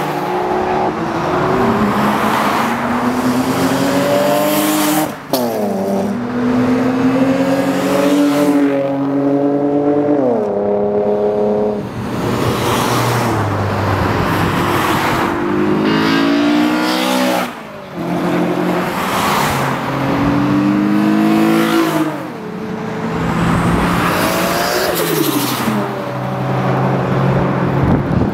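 Lexus cars accelerating hard one after another, engines revving up in pitch and dropping sharply at each gear change, over and over.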